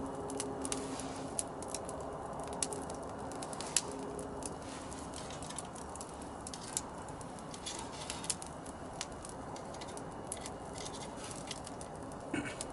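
Squid grilling in a cast-iron skillet over a wood fire: a hiss of sizzling with many irregular sharp crackles and pops.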